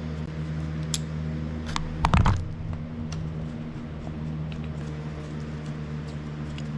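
Small clicks and one louder knock about two seconds in, from carburetor parts and tools being handled while the carb is reassembled after a pilot jet change, over a steady low hum.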